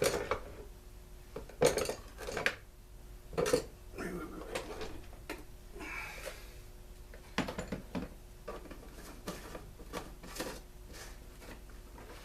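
Hand tools and small parts clinking and knocking as a Stihl BG 56 C leaf blower is taken apart: irregular clatters, loudest at the start and around two and three and a half seconds in.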